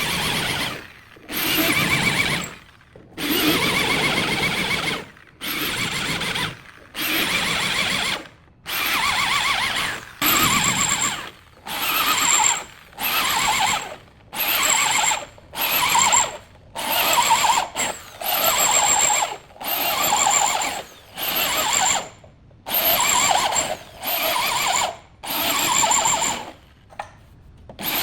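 Power tool run in short repeated bursts, about one burst a second with brief pauses between.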